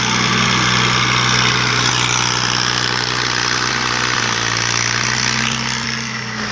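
Tractor engine running steadily at a constant, even note.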